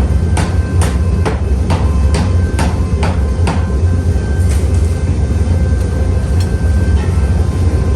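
Hammer blows on metal, a little over two a second, stopping about halfway through, over a steady low hum of workshop machinery.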